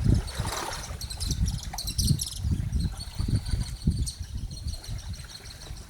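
Small lake waves lapping at the shore in repeated low splashes, with birds chirping and whistling in the background.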